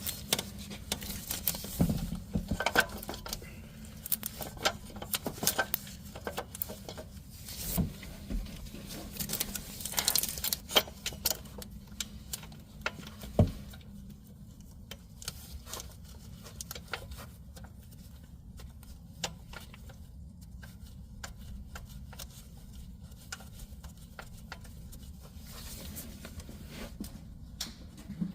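Hand tools and small metal parts clinking, tapping and knocking in irregular clicks during reassembly of the engine's belt-and-pulley accessory drive. The clicks come thick and fast at first and thin out after about fourteen seconds.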